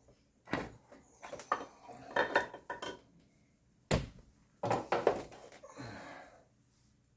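Metal tools or parts clinking and clattering as they are handled and set down: a string of sharp knocks with short metallic ringing, then a brief scraping noise near the end.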